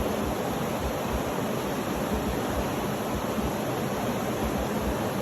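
Steady, unbroken rushing noise from a sleep-sound track, even across low and high pitches with no rhythm or events.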